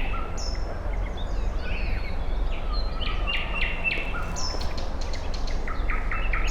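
Several songbirds singing and chirping over one another in woodland, with short repeated notes and quick phrases throughout. A steady low rumble lies underneath.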